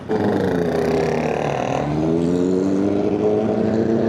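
Triumph Bonneville's parallel-twin engine pulling under load with wind noise: the engine note sags, breaks off about two seconds in as a gear is changed, then rises steadily as the bike accelerates.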